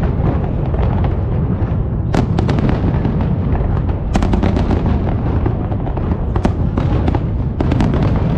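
Fireworks show: a continuous rumble of overlapping shell bursts with sharp bangs and crackling reports, heaviest about two seconds in, about four seconds in, and near the end.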